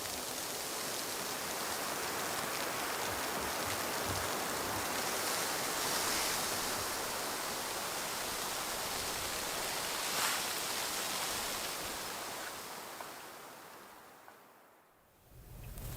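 A steady, even rushing noise with a short hiss about ten seconds in, fading out over the last few seconds.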